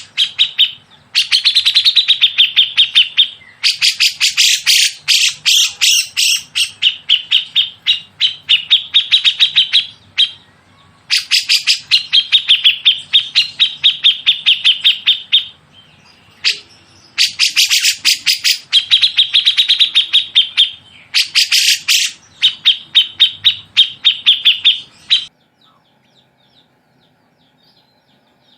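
A songbird giving loud, rapid chattering phrases of quick repeated notes, about eight to ten a second, in bouts of two to four seconds with short pauses between. The song stops near the end.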